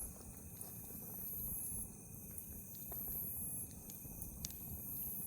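Wood fire burning with a few sharp crackles and pops over a low steady rustle, with a high pulsing hiss in the background.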